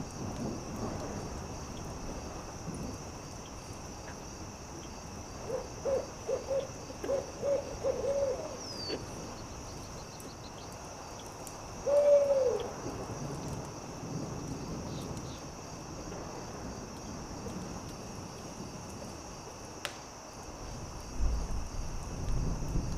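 Owl hooting: a quick run of about six short hoots, then a single longer, louder hoot a few seconds later, over a steady high-pitched insect drone.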